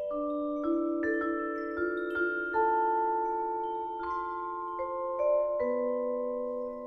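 Vibraphone played slowly with mallets. Single notes are struck one after another, about a dozen in all, and each rings on under the next so that they build into sustained, overlapping chords.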